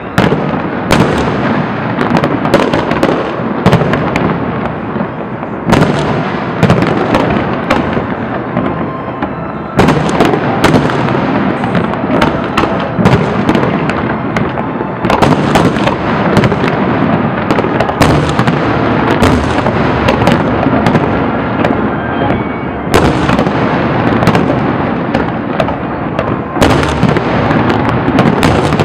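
Aerial fireworks display: a dense, continuous barrage of bangs and crackles from bursting shells, surging with new volleys every few seconds.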